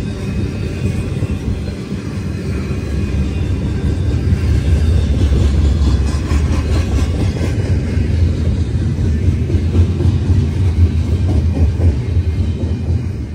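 Freight train rolling past: a steady, heavy low rumble of cars on the rails, growing louder a few seconds in.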